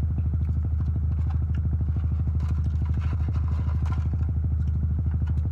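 A car engine idling steadily, heard from inside the cabin as a low, even hum with a fast regular pulse.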